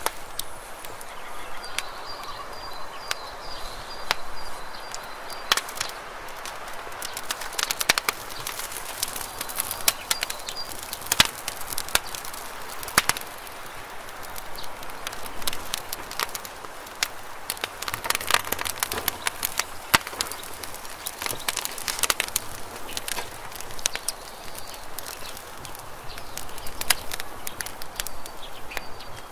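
Campfire burning with irregular sharp crackles and pops over a steady hiss of flame. A faint thin high whistle comes and goes a few times.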